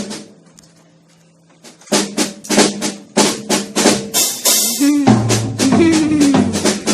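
Drum kit playing a quick, steady beat of bass drum, snare and cymbals that starts about two seconds in after a near-quiet pause, with a cymbal wash around the middle.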